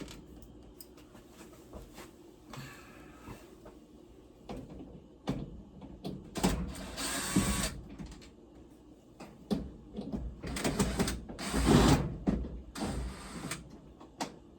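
Work noises from taking the back panel off a GE dryer: several short bursts of tool and handling noise as screws are backed out and the metal panel is worked loose, with quieter rattles in between.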